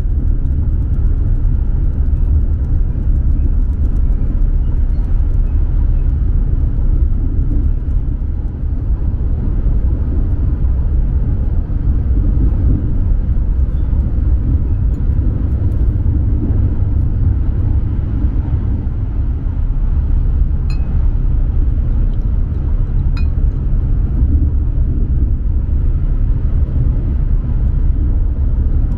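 Steady low rumble of a Hayabusa Shinkansen running at speed, heard inside the passenger cabin. Two faint clinks about three-quarters of the way through.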